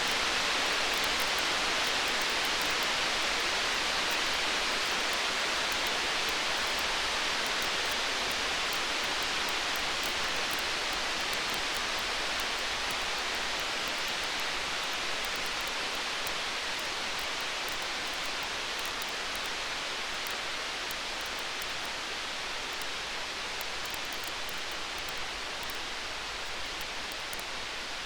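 Steady hiss of storm rain with the fine, rapid crackle of a wood fire, slowly growing quieter.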